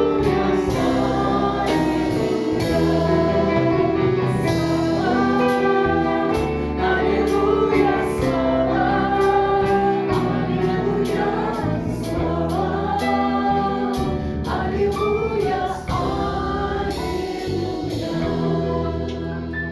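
A choir singing a Christian song of praise, with sustained notes, growing quieter near the end.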